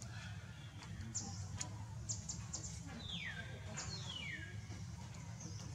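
Birds chirping: short, sharp high chirps, with two falling whistled calls about three and four seconds in, over a steady low hum.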